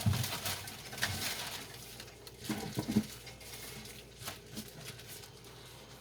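Dishes being handled during hand-washing: scattered light taps and clicks, with a few soft knocks between about two and a half and three seconds in.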